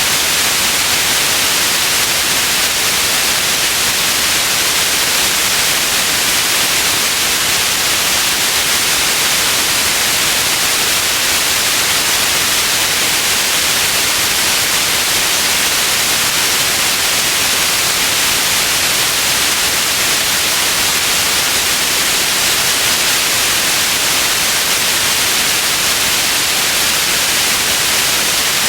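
Steady white noise: an even, unchanging hiss, strongest in the treble and thinner in the bass.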